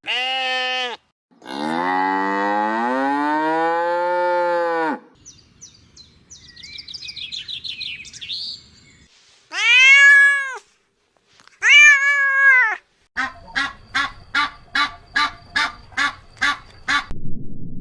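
A sequence of farm animal calls: a long cow moo, then fainter high calls, then two cat meows, followed by a rapid run of about a dozen short, evenly spaced calls.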